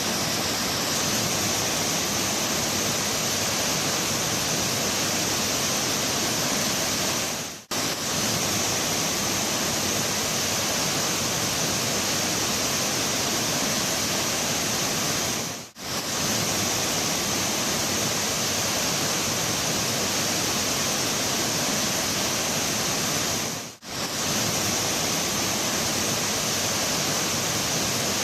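Mountain river rushing in a steady, dense hiss of water, briefly dropping out three times at even intervals of about eight seconds.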